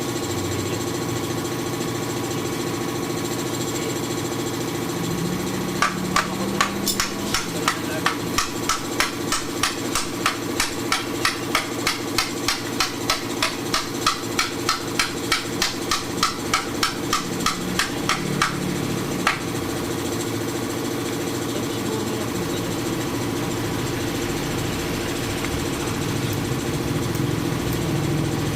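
Rapid, evenly spaced hammer blows, about two or three a second, starting about six seconds in and stopping after some twelve seconds, over a steady engine hum.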